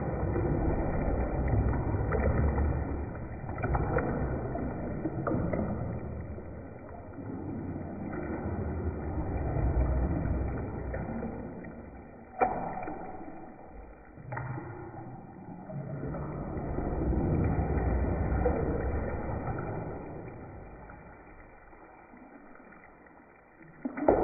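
Bathwater sloshing in surges as waves are pushed through a filled tub, swelling and fading every few seconds. A few sharp knocks cut through, the loudest about halfway.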